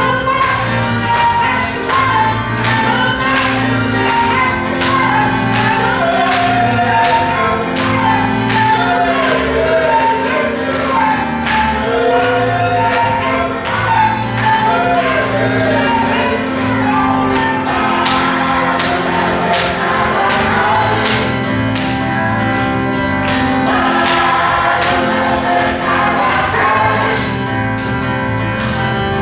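Gospel choir singing with a band, a drum keeping a steady beat under the voices.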